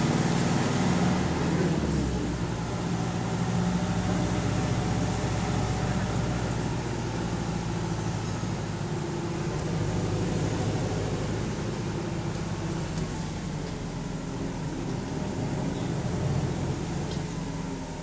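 Volvo hybrid double-decker bus's diesel engine running steadily, heard from inside the passenger saloon, its hum slowly swelling and easing. The uploader notes a high idle and a slight exhaust leak on this bus.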